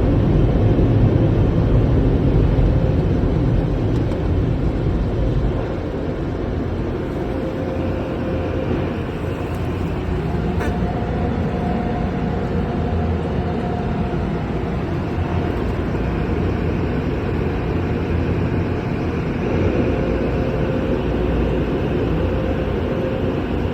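Car wash machinery running: a steady low rumble and rushing noise that eases a little about six seconds in.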